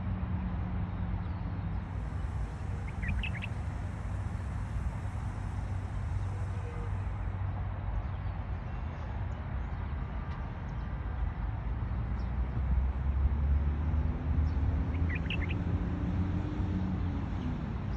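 Two brief clusters of short, high bird chirps, one about three seconds in and one near the end, over a steady low rumble that is the loudest sound throughout.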